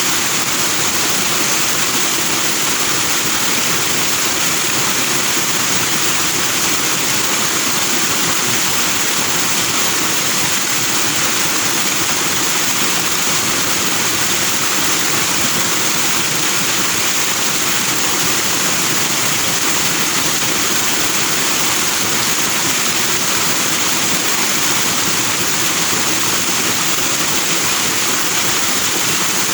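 Small forest stream rushing over rocks, its white water making a loud, steady rush of noise.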